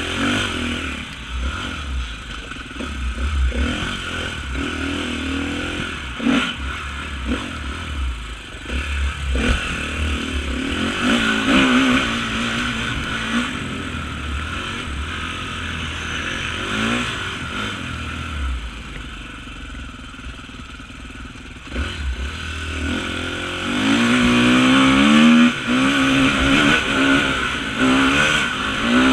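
Off-road motorcycle engine running at constantly changing throttle, with occasional knocks and clatter. About two-thirds of the way in the revs climb and stay high and loud to the end.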